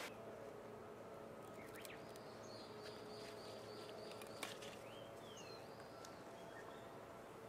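A bird singing a quick run of about six short repeated notes, then a falling note, over a faint steady outdoor hum. A sharp snip of garden pruning shears comes about halfway through.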